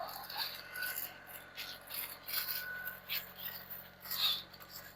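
Wooden boards being handled and shifted, scraping and rubbing against each other with irregular light knocks.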